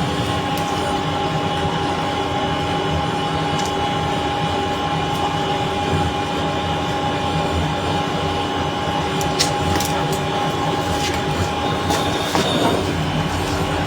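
A steady mechanical drone with several constant hum tones running under it, and a few faint clicks about two-thirds of the way through.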